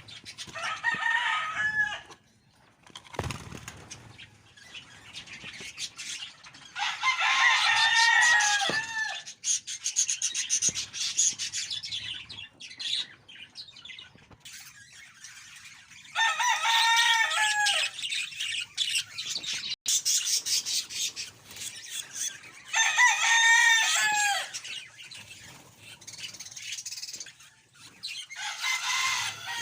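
A bird's long calls, each one or two seconds with a drop in pitch at the end, repeated about every six to eight seconds. Quieter scratchy rustling between them.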